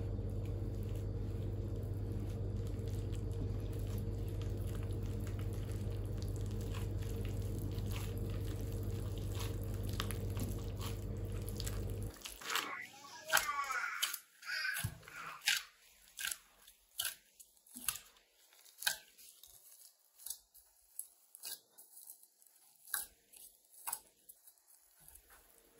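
A steady machine hum that cuts off suddenly about twelve seconds in, followed by a string of light clicks and taps from handling.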